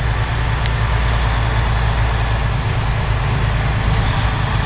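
A semi truck's diesel engine and road noise heard from inside the cab while driving: a steady low drone.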